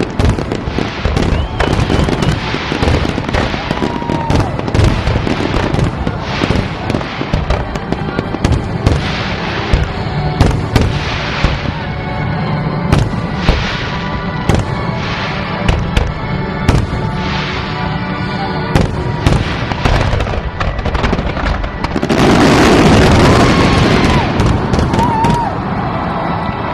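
Fireworks display: a rapid, continuous run of booms and bangs from bursting shells. About 22 seconds in comes a louder, dense crackling volley lasting two or three seconds.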